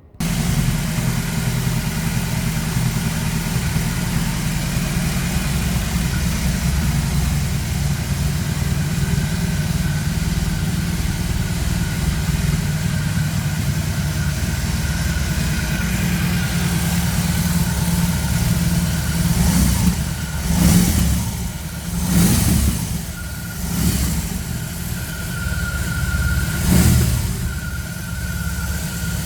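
BMW R 18 Transcontinental's 1,802 cc boxer twin idling steadily through its exhaust, then revved in four short throttle blips in the last ten seconds.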